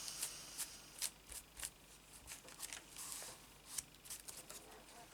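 Faint rustling and light ticks of paper and card being handled and positioned on a journal page.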